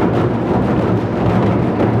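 Modumbuk, an ensemble of Korean barrel drums, played as a fast, dense roll of low drum strokes that run together without distinct separate hits.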